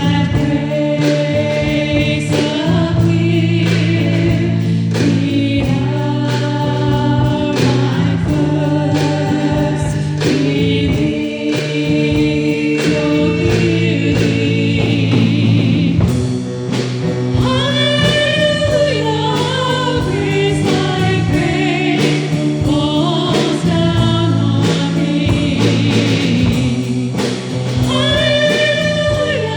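Church choir singing a worship song over long held accompaniment chords, with the voices moving in phrases and the chords changing every few seconds.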